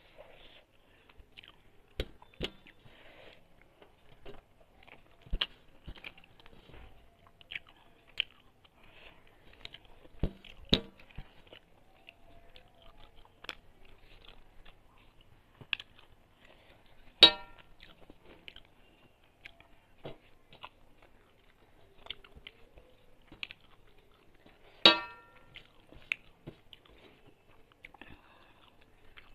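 Close-up chewing of prawn curry and rice eaten by hand, with scattered soft mouth clicks. Twice, a little past halfway and again near the end, the metal plate gives a sharp clink with a brief ring.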